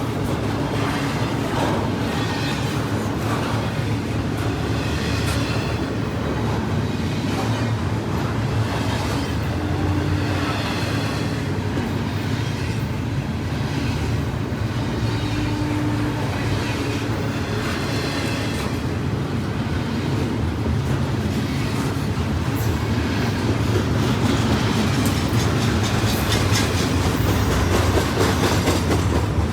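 CSX freight train cars rolling past, a steady rumble of steel wheels on rail with the clickety-clack of wheels over rail joints.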